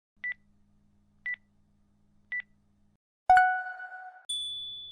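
Timer countdown beeps marking the end of a timed pose: three short high beeps about a second apart, then a louder, lower tone that rings and fades for about a second, followed by a higher tone that fades out.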